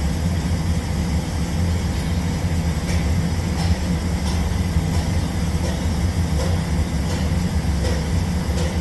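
A steady low machine hum, with a few faint ticks now and then.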